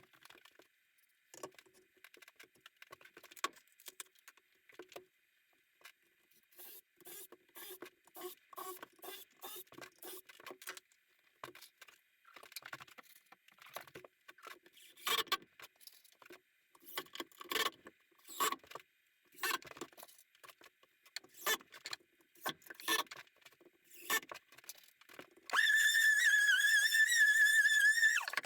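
Workshop handling noise: a long run of scattered knocks, clicks and taps. About three seconds before the end a small power tool's motor starts and runs with a steady high whine that wavers slightly.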